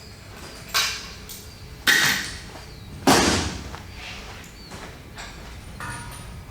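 Three sharp clanks of tools or parts being handled on the engine, about a second apart, each with a short ring.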